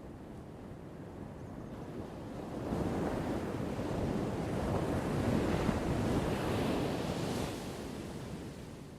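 Ocean wave: a single wave swells about two and a half seconds in, breaks into a hiss loudest past the middle, and washes out near the end, over a low rumble of surf and wind.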